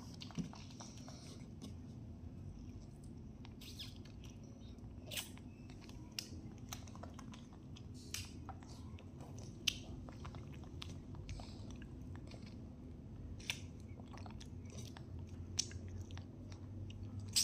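A baby and a young monkey chewing and biting peeled orange segments: irregular short clicks over a steady low hum.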